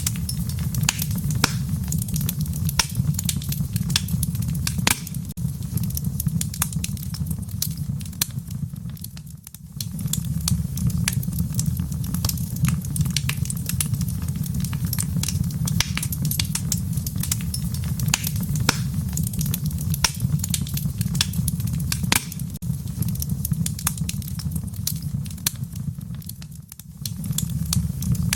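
Wood fire crackling in a fireplace: frequent sharp pops and snaps over a steady low rumble. The sound dips briefly twice, about a third of the way in and again near the end.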